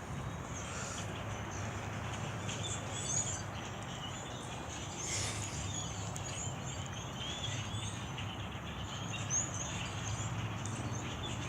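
A flock of birds chirping, many short overlapping calls, over a steady low hum.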